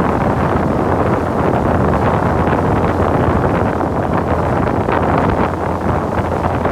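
Wind buffeting the microphone aboard a moving motorboat, over the steady low drone of its engine and rushing water.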